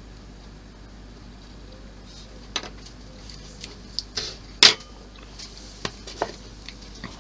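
Small hard tools and parts clicking and tapping on a work surface: about eight scattered sharp clicks, the loudest a little past halfway, over a low steady background.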